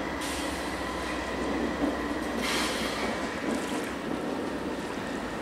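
Ore train led by a pair of GE AC4400CW diesel locomotives moving slowly along the tracks, engines and wheels running steadily, with a few short hisses.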